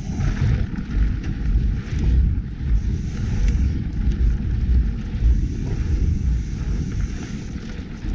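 Wind buffeting the microphone of a bike-mounted action camera, with the low rumble of a mountain bike rolling over trail, in uneven gusts.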